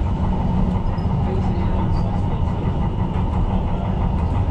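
Tyne & Wear Metro train running on the line, heard from inside: a steady, loud low rumble of wheels on rail with a few faint clicks.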